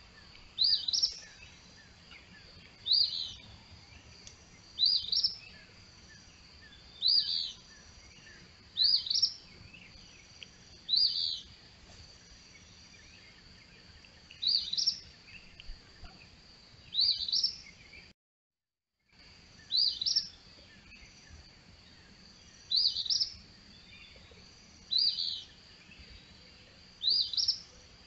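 A songbird singing a short, high phrase about every two seconds, over a faint steady high-pitched tone. The sound cuts out completely for about a second around two-thirds of the way through.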